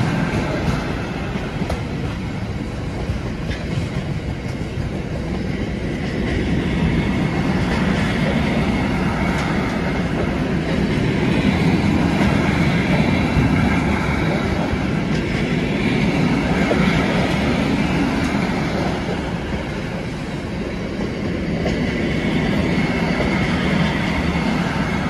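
Freight train of bogie tank wagons rolling past: a steady rumble of steel wheels on the rails with faint wheel clicks, swelling and easing slowly as the wagons go by.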